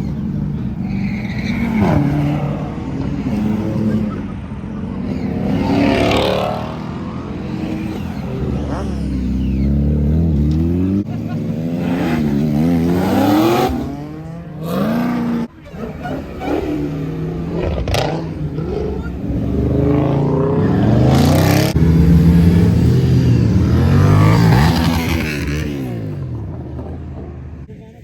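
Cars revving and accelerating past one after another, their engine notes rising and falling in pitch as each one goes by.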